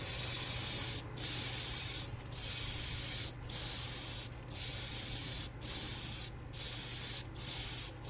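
Gaahleri GS-36 airbrush spraying thinned acrylic paint at 21 psi: a loud hiss in passes of about a second, cut by brief breaks each time the trigger is let off, about eight times, with a steady low hum underneath.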